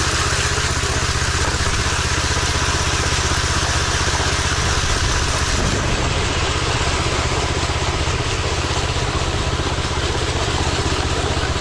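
Power trowel running steadily, its engine holding a constant note as the spinning blades burnish a concrete slab on the final burning-down pass.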